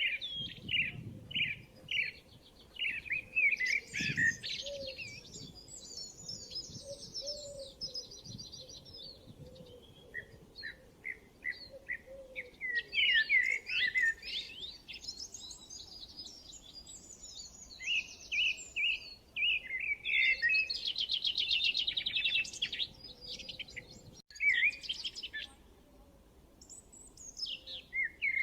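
Several songbirds singing and chirping: runs of quick whistled notes and fast trills in bursts, with quieter gaps between.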